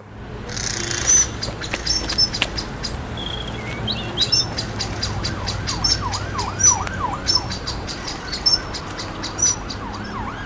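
Birds chirping and calling: many short, high chirps and quick swooping whistles repeating over a low steady rumble. The sound cuts off suddenly near the end.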